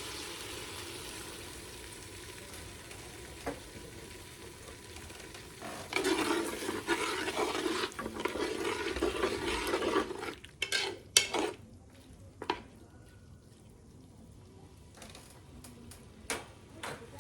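Pork frying and sizzling in a pan, stirred with a spatula for a few seconds about midway through, then a few sharp knocks of the utensil against the pan.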